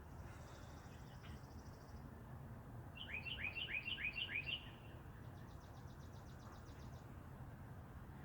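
Wild birds singing: a quick run of about six high, downward-slurred notes, and rapid high trills before and after it, over a steady low background rumble.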